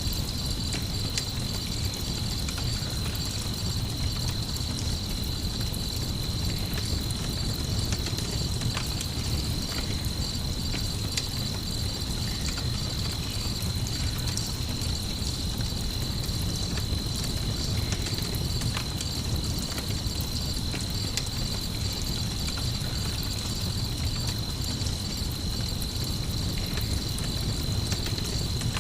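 Mixed sleep ambience: night insects chirring in a steady high band, a campfire crackling with scattered small pops, over a constant low rumble.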